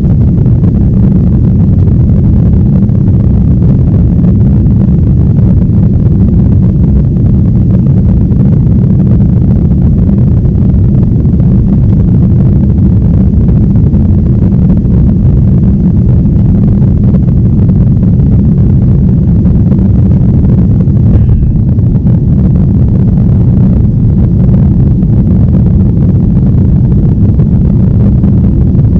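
Loud, steady low drone of a jet airliner cabin in flight: engine and airflow noise, unchanging throughout.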